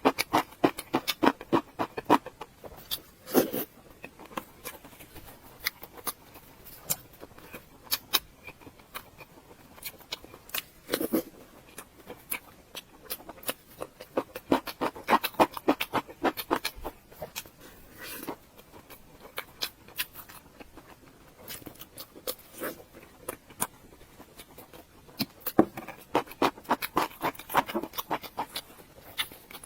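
Close-miked chewing and mouth sounds: runs of crisp crunches and wet clicks in irregular clusters, as of dried pickled radish (萝卜干) being bitten and chewed.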